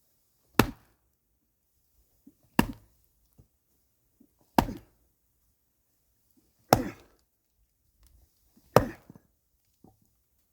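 An axe splitting firewood: five sharp blows, about two seconds apart.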